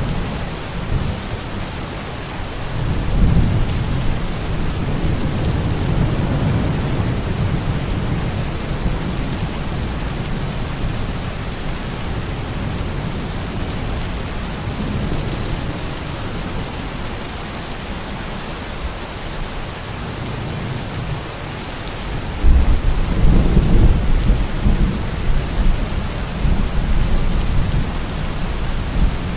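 Steady rain, with low rumbles rising out of it, one about three seconds in and a louder one about twenty-two seconds in.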